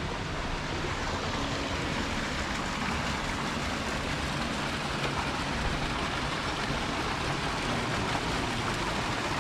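Crow Creek's water rushing over rocks, a steady even rush.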